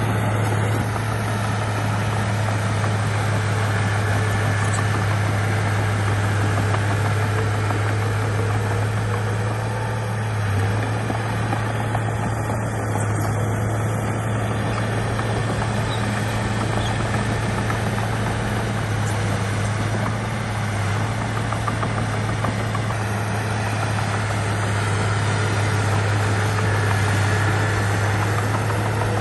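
Bulldozer's diesel engine running steadily, a constant low drone with no change in pace.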